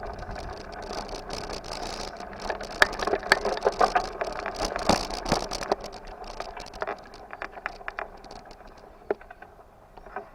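Bicycle being ridden: steady rolling noise with frequent rattles and knocks, busiest in the middle and easing off near the end.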